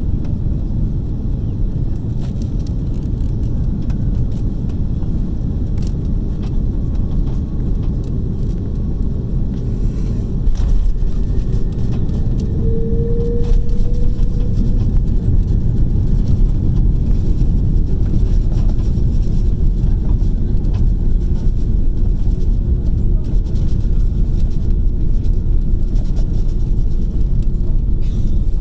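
Airbus A330-300 cabin noise heard from an economy seat: a steady low rumble that steps up louder about ten seconds in, with a brief tone near the middle.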